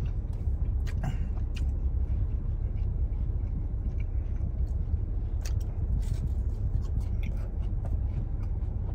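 Close-miked chewing of pizza, with scattered wet smacks and clicks of the mouth, over a steady low hum in a car cabin.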